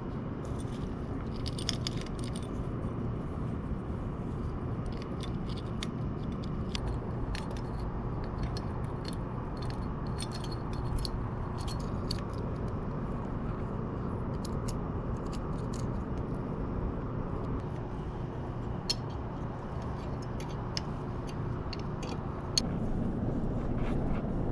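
Light metallic clicks and clinks of hand tools and engine parts being handled while the cylinder head goes onto a 125cc pit bike engine, scattered irregularly over a steady low rumble.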